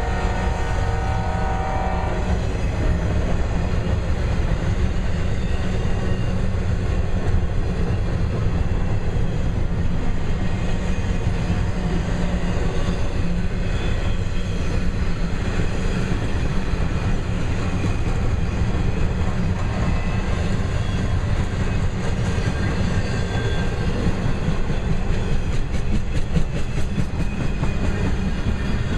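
Loaded intermodal train cars rolling past: a steady low rumble of steel wheels on rail with clickety-clack. A train horn sounds at the start and cuts off about two seconds in, and near the end comes a run of quick wheel clicks.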